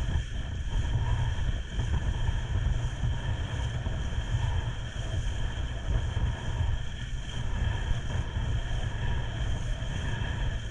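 Motorboat running steadily at speed, heavy wind buffeting the microphone over a low rumble, with a faint steady engine whine above it.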